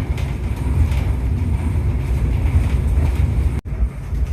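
Tateyama Cable Car running on its descent, a steady low rumble heard inside the passenger car. The sound drops out for an instant about three and a half seconds in.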